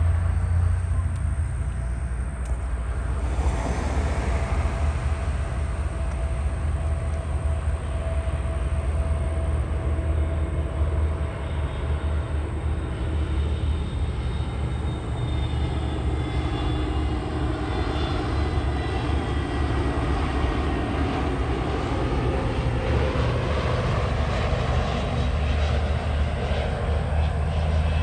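Jet airliner engines on approach to land, a steady whine over a heavy low rumble, with thin tones that slowly fall in pitch as the aircraft passes.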